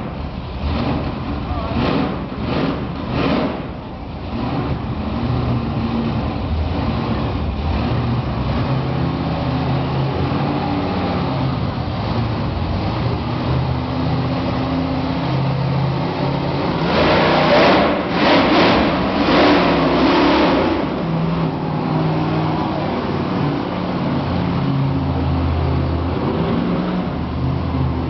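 Monster truck engines running and revving, their pitch shifting up and down. A louder, noisier burst comes about seventeen to twenty-one seconds in.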